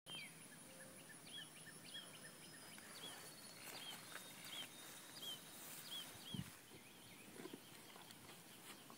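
Quiet outdoor ambience: a bird repeats a short, arched chirp about once every two-thirds of a second, over a faint steady high tone, with one soft thump a little over six seconds in.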